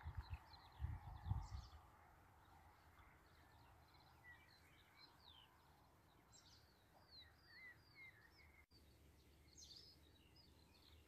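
Faint birdsong in open countryside: small birds chirping and twittering in short rising and falling notes throughout, with low rumbling on the microphone in the first second or so.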